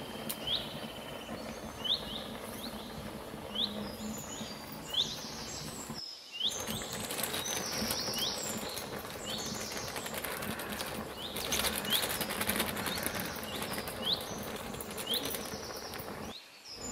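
Birds calling: one bird repeats a short rising chirp about once a second, and after a few seconds other birds join with falling calls, over a steady hiss.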